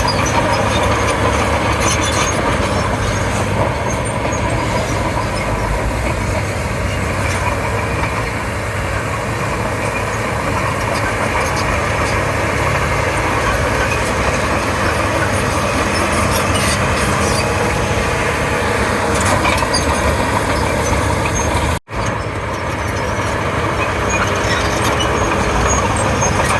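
Komatsu D31P crawler bulldozer's diesel engine running steadily under load as it works fill, with a constant mechanical din. The sound drops out for an instant about three-quarters of the way through, then carries on.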